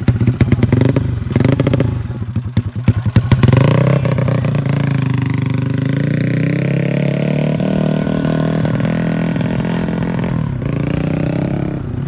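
Honda C70-based motorcycle engine enlarged to 180cc, blipped with short choppy bursts of throttle, then pulling away hard with its pitch climbing steadily for several seconds before dropping sharply near the end.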